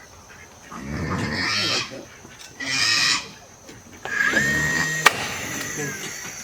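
Pigs grunting and squealing in the first half, then a cordless drill spins up about four seconds in, runs steadily for about two seconds and winds down, with a sharp click partway through.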